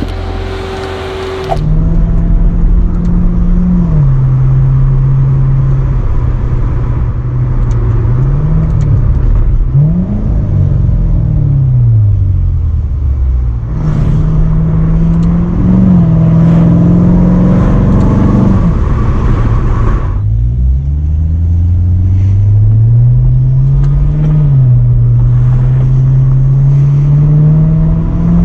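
Chevrolet C7 Corvette's V8 engine accelerating hard, its note climbing through the revs and dropping back at each gear change, several times over; it starts about a second and a half in.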